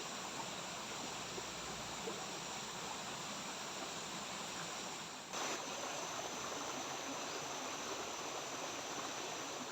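River water flowing steadily, a continuous rushing wash.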